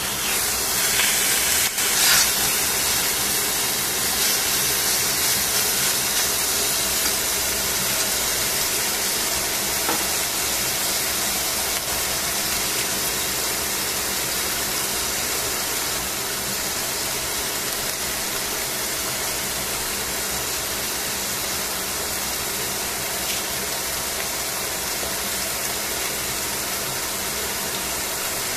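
Chicken sizzling in hot fat in a stainless steel frying pan: a steady hiss, loudest in the first couple of seconds and easing slightly as it goes on. A couple of sharp clicks sound in the first seconds.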